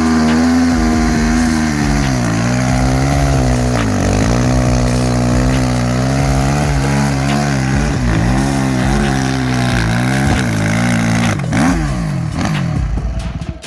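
Suzuki RM-Z450 single-cylinder four-stroke engine held at high revs for a tyre-smoking burnout, its pitch wavering up and down. About twelve seconds in, the revs fall away and the sound drops off sharply.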